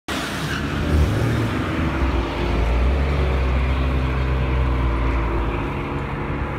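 Dodge Challenger SRT Hellcat's supercharged 6.2-litre Hemi V8 held at high revs through a burnout, the rear tyres spinning in smoke. The engine eases off about five and a half seconds in as the car rolls forward.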